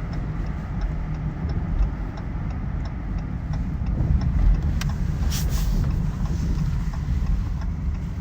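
Car cabin rumble of engine and road noise while driving, with a faint regular ticking and a brief hiss about five seconds in.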